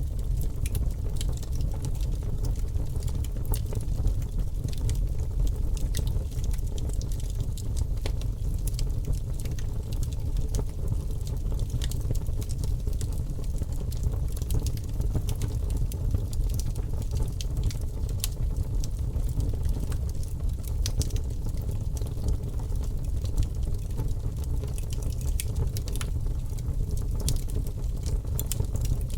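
Wood fire crackling in a fireplace: a steady low rumble of burning with frequent small pops and snaps throughout.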